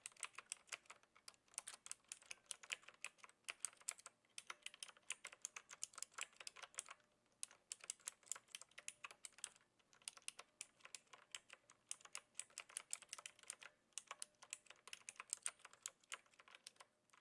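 Continuous typing on a Knewkey Rymek typewriter-style mechanical keyboard with clicky blue switches, typed with a light touch: a dense run of key clicks broken by a few short pauses.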